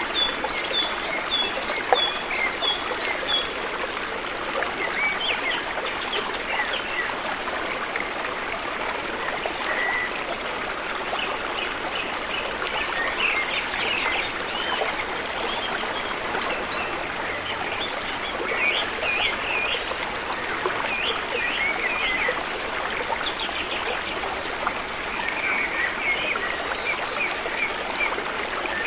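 River water flowing and babbling steadily, with small birds chirping over it on and off, including a quick run of repeated high notes in the first few seconds.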